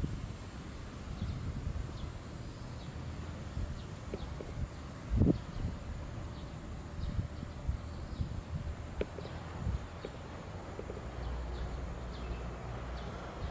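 Outdoor ambience: a low steady rumble with a few scattered soft knocks, the loudest about five seconds in, and faint short high ticks.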